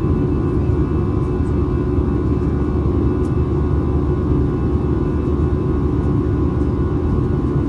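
Steady cabin noise inside an Airbus A320 in its climb: a low rumble of airflow and its CFM56-5B engines, with faint steady tones above it.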